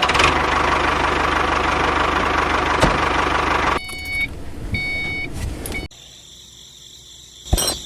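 A small engine running steadily with an even beat for about four seconds, then a cut to quieter sound with two short electronic tones and, near the end, a sharp click.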